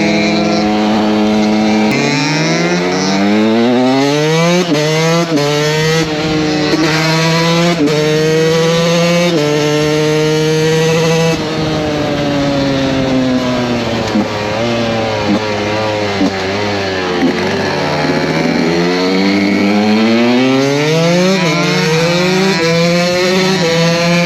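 KTM 125 SX two-stroke single-cylinder engine under way: steady for a moment, then accelerating up through several gears, each shift a short drop in pitch. It holds high revs, slows with falling revs through the middle, and accelerates through the gears again near the end.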